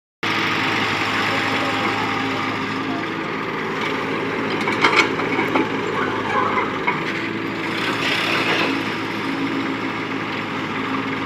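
Mahindra tractor's diesel engine running steadily, with a few sharp clicks about five seconds in.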